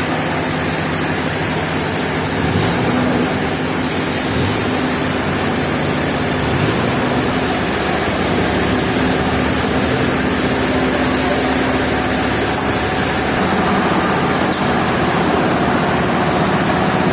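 An engine running steadily, its pitch shifting slightly a couple of times.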